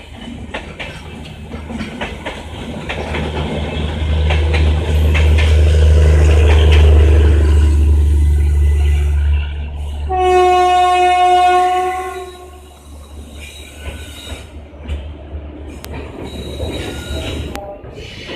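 Train running past on the track beside the platform: a deep locomotive rumble that swells and then fades, with wheel clicks over the rail joints. About ten seconds in, the locomotive horn sounds one steady note for about two seconds.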